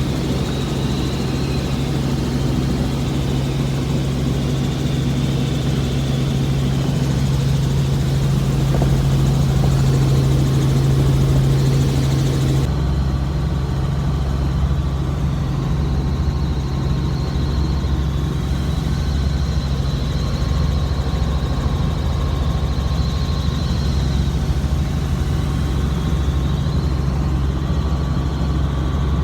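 Helicopter engine and rotor running with a steady, loud drone; the higher hiss drops away abruptly about thirteen seconds in.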